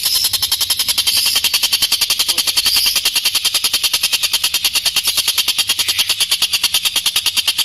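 Tengkek buto, a kingfisher, giving a long, harsh rattling call of very rapid even notes, about a dozen a second, held unbroken: the rough, drawn-out 'ngebren' song prized by bird keepers.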